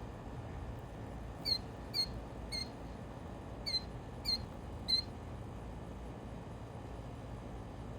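A bird chirping: six short notes, each ending in a quick downward hook, in two groups of three about half a second apart.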